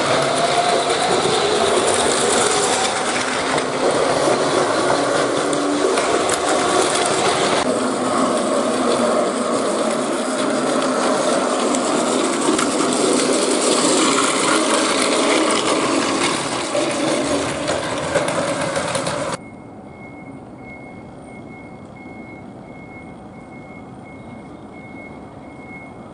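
Train running, a loud dense clattering mechanical noise. About 19 seconds in it cuts off suddenly to a much quieter steady hum with a faint high steady tone.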